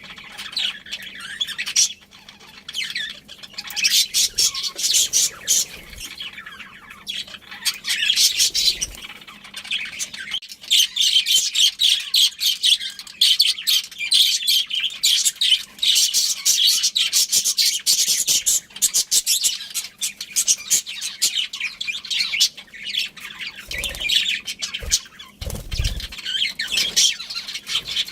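Budgerigars chattering and chirping in a busy, continuous stream of rapid high chirps and squawks.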